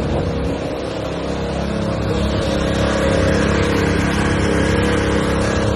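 Motor vehicle engine running steadily under a constant rushing noise.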